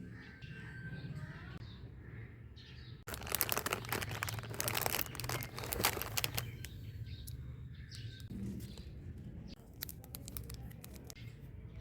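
Packaging being crinkled and torn open, a dense crackling for about three seconds starting a few seconds in, then scattered rustles.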